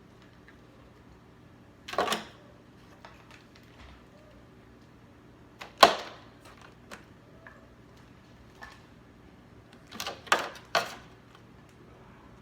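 Crab legs being put into a pan: a few short, sharp clacks and rattles of hard shell against the pan, about two seconds in, again near six seconds, and a quick cluster around ten to eleven seconds, over a faint steady hum.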